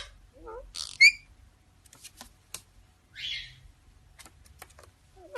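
A parrot making short whistled chirps and a rough squawk, with scattered sharp clicks in between.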